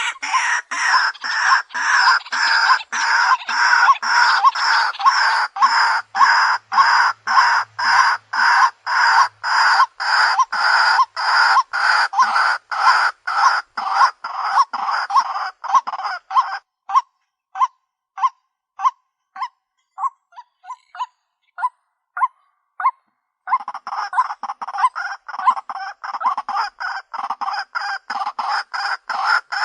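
White-breasted waterhen calling: a fast, unbroken run of harsh repeated notes, about two to three a second, with several calls overlapping. About 17 seconds in the full chorus drops away, leaving single short sharp notes for several seconds, and then it starts again.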